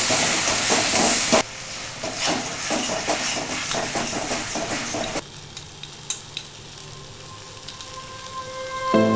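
Onions and ginger-garlic paste sizzling in hot oil in a metal kadai, with a metal spatula scraping and stirring against the pan. The sizzle is loud at first, drops sharply about a second and a half in, and drops again around five seconds, leaving a low hiss and a few utensil clicks.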